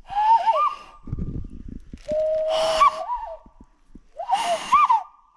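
A series of short, high-pitched, whistle-like squeals that warble and bend in pitch, each lasting half a second to a second, with an airy hiss behind them.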